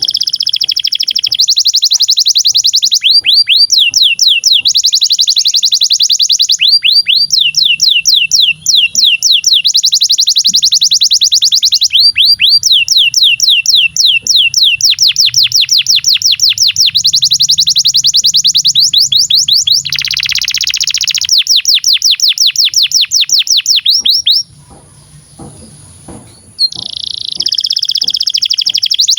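Canary singing a long song of rapid trills, one run of fast repeated notes after another, with a short break about 25 seconds in.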